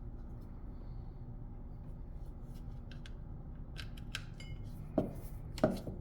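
Small hard parts being handled during a repair of a Google Mini smart speaker: a run of light clicks and ticks from about halfway, then two louder knocks near the end, over a steady low hum.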